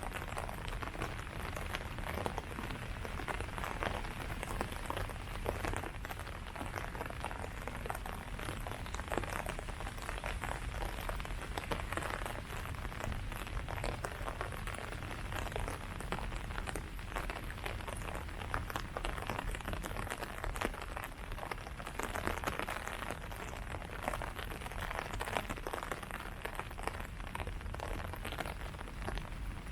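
Steady rain falling on leaves, many individual drops pattering densely and evenly, over a low steady rumble.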